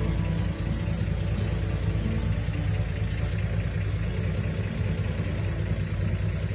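A 1951 Chevrolet 3100 pickup's inline six-cylinder engine running steadily at low speed.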